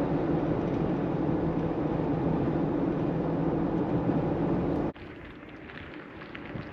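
Steady engine and road drone inside a moving Jeep, with a low hum held at an even pitch. About five seconds in it cuts off abruptly to a quieter, even rushing noise.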